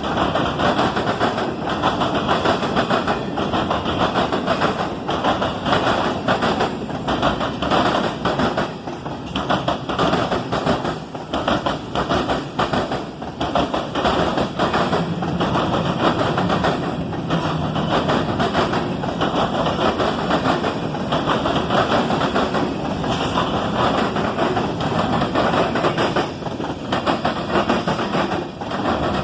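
Cars of a mixed freight train rolling steadily past, a continuous rumble of wheels on rail crossed by rapid clicking of wheels over rail joints.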